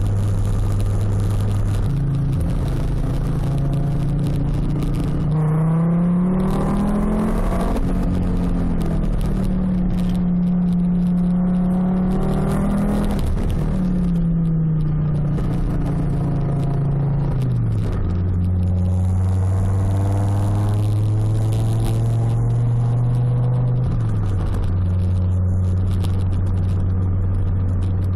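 Fiat Coupé 20v's naturally aspirated five-cylinder engine driving through a loud custom stainless exhaust, a Cybox line with a SportCat and a flame tube. It drones steadily, with the pitch climbing under acceleration a few seconds in and dropping at gear changes, then stepping back up near the end.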